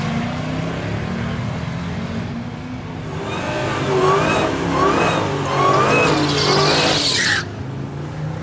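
Car engine running, joined about three seconds in by loud wavering tyre squeal that stops abruptly near the end.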